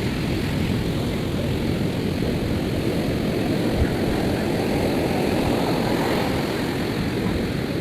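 Steady low noise of wind and surf at the seashore, with one brief knock a little under four seconds in.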